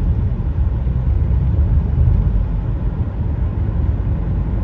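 Steady low road and engine rumble heard inside a car cabin while driving.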